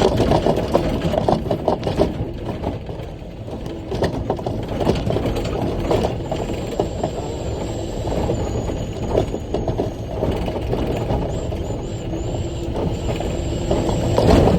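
Cab of a big rock truck setting off: the diesel engine runs steadily, with many rattles and knocks from the cab and body. A faint high whine comes and goes in the second half.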